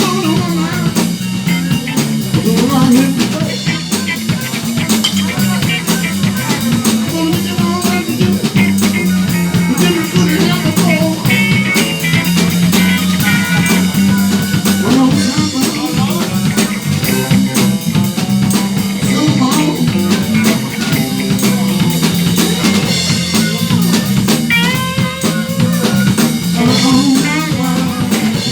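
Live band playing a blues groove on drum kit, bass and electric guitar, with rimshots on the snare and guitar phrases over the top.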